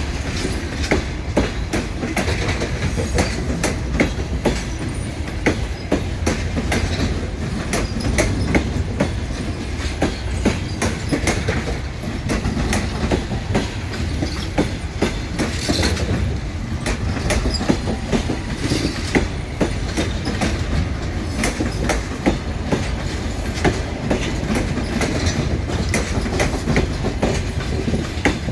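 A departing passenger train rolling past, its wheels giving a continuous irregular clicking over the rail joints.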